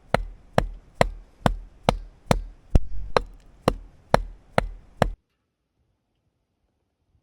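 Firewood being chopped or split with steady, even strikes, about two a second. The strikes stop abruptly about five seconds in.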